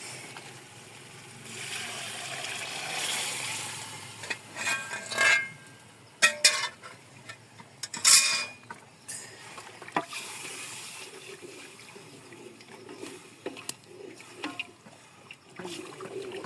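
Cooking pots and utensils being handled: a hiss for a couple of seconds near the start, then a run of sharp knocks and clatters of metal on metal, with lighter clinks and scrapes afterwards.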